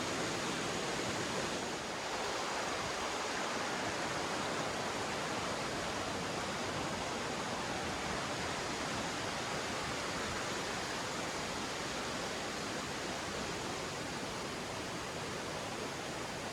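Steady rushing of a river flowing over rocks, an even continuous wash of water noise.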